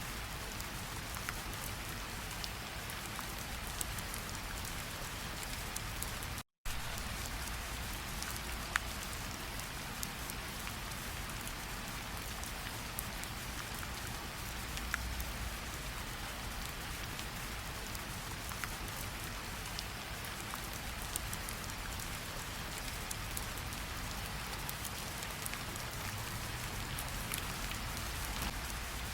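Steady rain falling on the ground and puddled water, with scattered single drops ticking through it. The sound cuts out completely for a split second about six seconds in.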